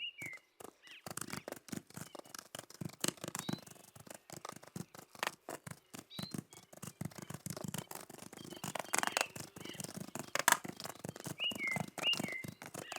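A small bird gives short, falling chirps several times, over a dense, irregular patter of clicks and crunches.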